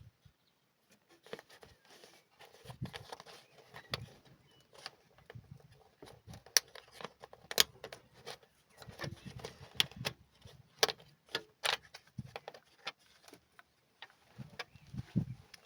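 Scattered sharp clicks and clinks of hand tools and engine parts being handled during spark-plug work, irregular and strongest in the middle stretch.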